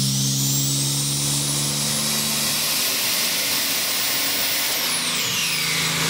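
Turbocharged engine of a Nissan 300ZX (Z31) running steadily, with a strong hiss and a high whine that climbs for about four seconds and then falls away. The engine note drops slightly partway through.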